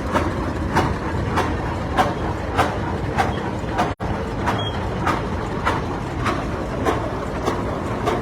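Large antique tractor engine running slowly in a parade, its exhaust beats coming evenly, a little under two a second, over a steady low rumble. The sound drops out for a moment about four seconds in.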